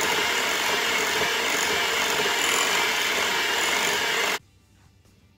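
Electric hand mixer running steadily, its beaters whipping cream cheese, butter and vanilla into frosting in a glass bowl; the sound cuts off suddenly about four seconds in.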